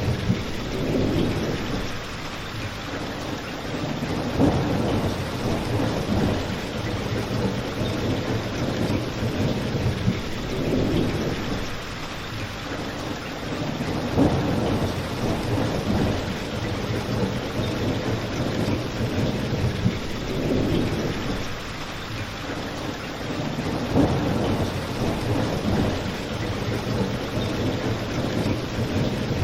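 Steady rain with a low rumble that swells and fades every few seconds, and now and then a sharp crackle or pop from a fireplace.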